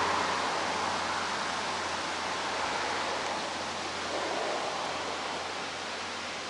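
Strong warm summer wind blowing, a steady rushing hiss that eases slightly over a few seconds.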